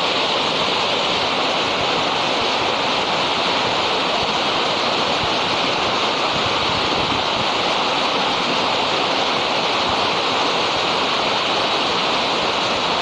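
A waterfall, water pouring and splashing in a steady, loud rush.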